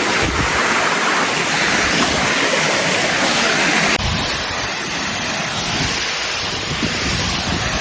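Steady rushing of a waterfall or fast stream. About four seconds in it changes abruptly to a duller rushing noise with low rumbles.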